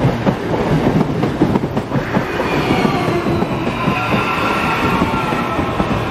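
CPTM electric multiple-unit train passing at close range, its steel wheels clattering steadily over the rails. Faint, thin, high wheel-squeal tones come and go over the clatter, clearer from about two seconds in.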